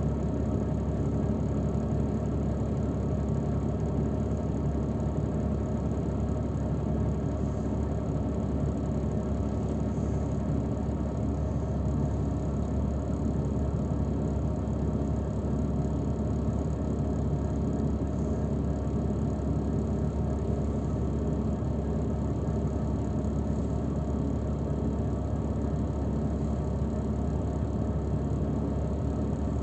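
Steady engine drone and rumble heard from inside a transfer vehicle, unchanging in level.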